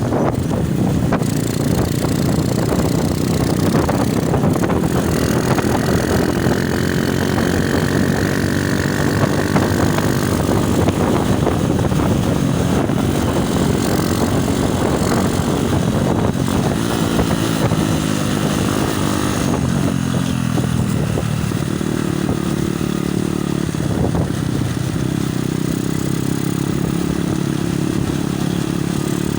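Motorcycle engine running under way, its pitch sagging about twenty seconds in and then settling at a new steady note, with wind buffeting the phone's microphone.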